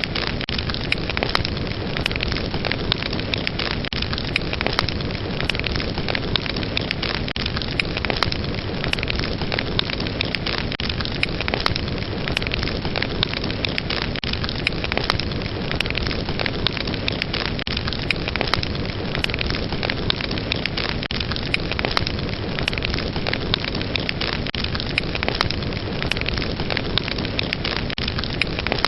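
Fire burning steadily with dense crackling and frequent small pops over a constant rushing hiss.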